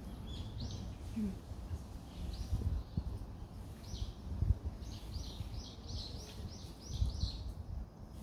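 A bird calling outdoors: short, high downward-sweeping chirps, a few scattered at first, then a quick run of about ten at roughly three a second. A low background rumble runs underneath.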